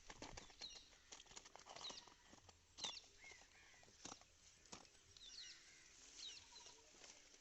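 Faint outdoor sound: small birds chirping now and then in short quick notes, over scattered light clicks and rustles.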